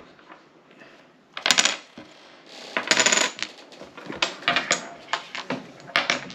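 Small hard game pieces clattering and clicking on a tabletop: two short clattering bursts, then a run of separate clicks as pieces are set down.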